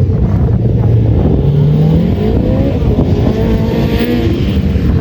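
Rally car engines running hard on a stage, loud, with the pitch rising and falling as drivers rev and change gear, one engine climbing sharply about two seconds in.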